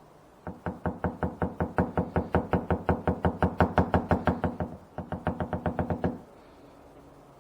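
Fast, even light hammer taps on a car body panel, about six or seven a second, from a paintless dent repair hammer working the dent; the tapping runs about four seconds, stops briefly, then goes on for about another second.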